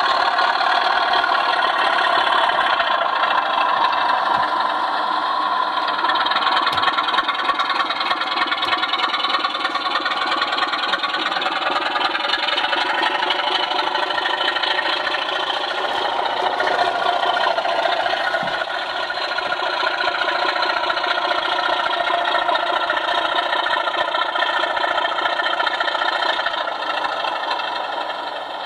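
Sound decoder in a Sutton's Class 24 model locomotive playing a recorded Sulzer diesel engine sound through its small loudspeaker as the model runs. It is a steady engine note with almost no deep bass, dipping slightly near the end.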